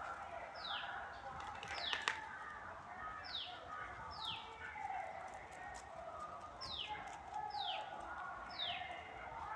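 A bird repeatedly giving a short, steeply down-sliding whistled call, seven times, in ones, twos and threes, over a steady background murmur. A couple of sharp taps sound about two seconds in.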